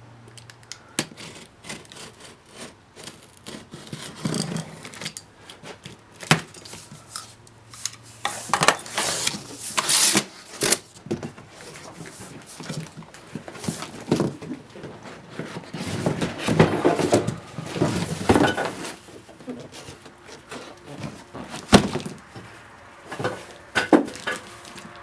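Unpacking a propane heater from its cardboard box: irregular knocks and clicks from handling, with stretches of scraping and rustling of the box and packing, the busiest about a third of the way in and again past the middle.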